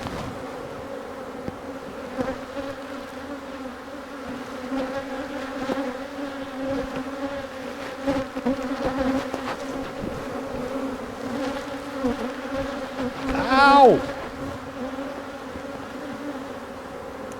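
Honeybees from an opened hive buzzing in a steady, dense hum, with scattered light knocks. About fourteen seconds in, a man gives a short, loud cry of "Ow!", falling in pitch, in pain as the agitated bees go after him.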